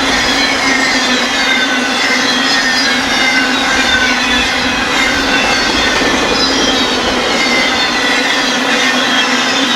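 BNSF freight train's cars rolling past, wheels squealing in several high tones that slide slowly downward, over a steady rumble.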